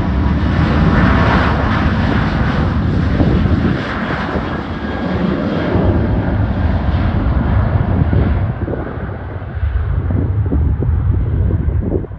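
Loud jet engine noise from an airliner passing low overhead. The high hiss dies away over the last few seconds as the aircraft moves off, leaving a low rumble.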